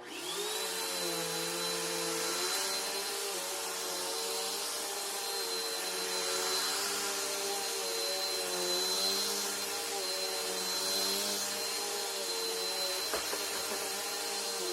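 Bissell Power Force bagged vacuum cleaner switched on, its motor spinning up with a briefly rising whine and then running steadily at full speed with a high whine. A single sharp knock comes near the end.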